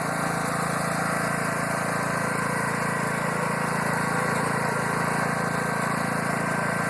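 Small tractor's engine running steadily as the tractor is driven along.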